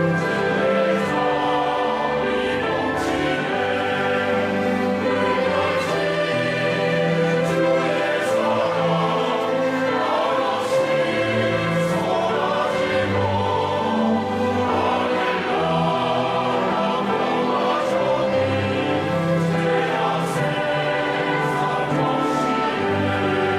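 Church choir singing a hymn anthem with orchestral accompaniment.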